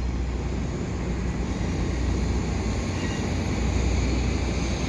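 Steady low rumble of an F59PH diesel locomotive leading a commuter train, growing slightly louder as it approaches.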